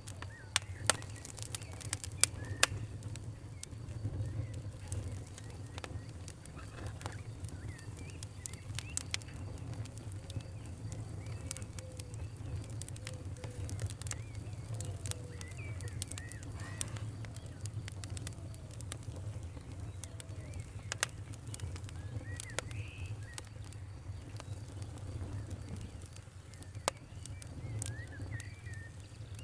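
Wood fire crackling: irregular sharp pops and snaps, with several loud ones in the first few seconds and another two near the middle and end, over a steady low rumble. Faint short chirps, like distant birds, sound in the background.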